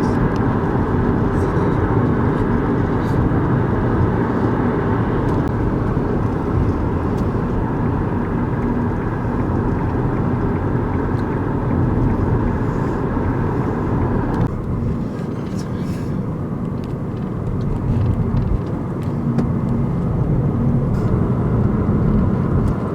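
Car driving along, with steady road and engine noise; the upper part of the noise drops away suddenly about two-thirds of the way through.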